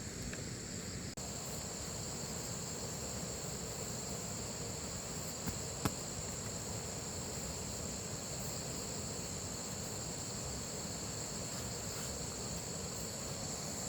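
Insects chirring in a steady, high-pitched drone, with a couple of short clicks near the middle.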